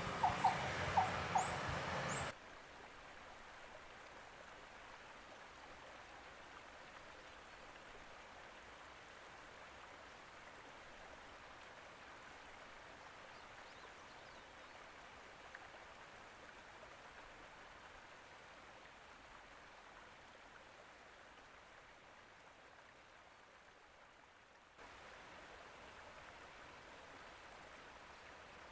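A couple of seconds of louder voices that cut off abruptly, then a faint, steady water-like hiss, as of a stream, with a small change in level near the end.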